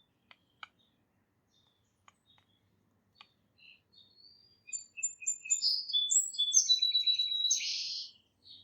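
Wild songbirds chirping and singing: a few faint sharp clicks at first, then scattered chirps building into a dense burst of overlapping song from about five seconds in until shortly before the end.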